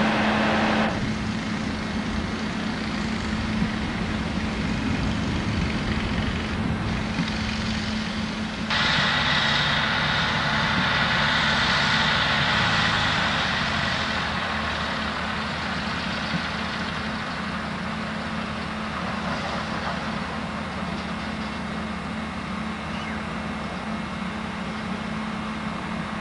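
Heavy vehicle's engine running steadily. About nine seconds in it gets suddenly louder, with a whine over the rumble, then slowly eases off.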